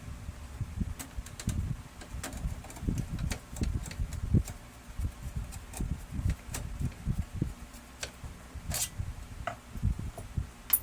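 Irregular soft knocks and light clicks of parts being handled, several a second, with a brief scrape just before the end and one sharp click at the end.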